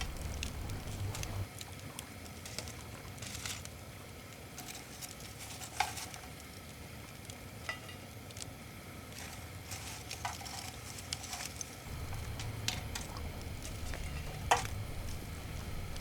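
Food sizzling over a wood fire, with a soft steady hiss broken by scattered sharp crackles and pops. A low rumble sits underneath at the start and again from about twelve seconds in.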